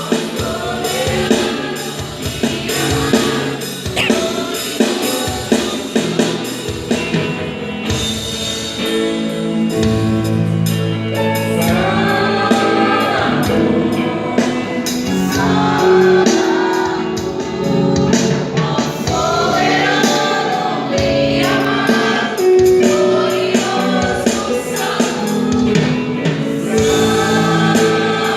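A gospel vocal group sings together over a band with a drum kit; the voices come in fuller from about twelve seconds in.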